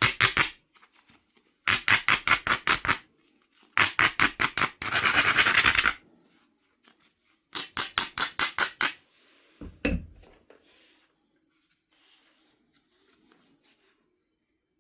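Stone abrader rubbed rapidly back and forth along the edge of a Knife River flint biface, grinding the platforms, in several short bursts of quick scraping strokes with one longer continuous scrape partway through. A single dull knock comes near the end.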